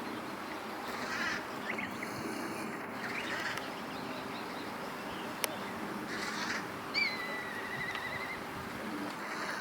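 Crows cawing a few times. About seven seconds in, a black kite calls: a high whistle that slides down into a wavering trill lasting about a second and a half.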